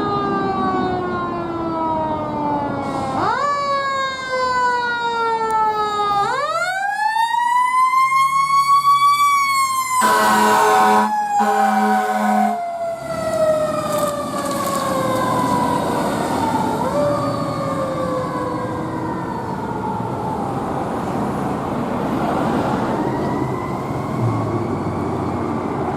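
Fire engine siren wailing, its pitch rising sharply and then falling slowly over several seconds, over the truck's engine noise. About ten seconds in, three short steady horn blasts sound over the siren.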